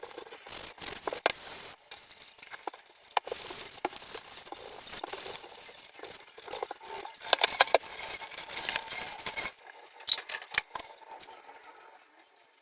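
Pots and pans being scrubbed and handled: irregular scraping with sharp metallic clinks. The loudest clinks come in a cluster about halfway through, and the sounds thin out near the end.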